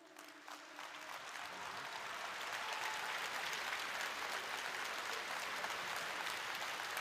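Audience applause after the last note of a live song: the clapping swells over the first couple of seconds, then holds steady.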